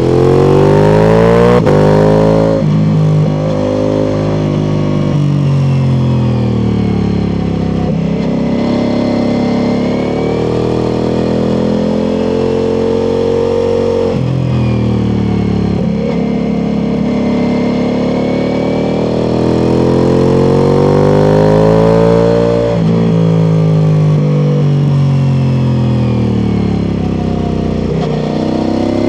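Ducati Multistrada V4 Pikes Peak's V4 engine through an Akrapovič exhaust, under way on a winding road. The engine note rises and falls as the rider accelerates and backs off, with quick drops in pitch at gear changes every few seconds.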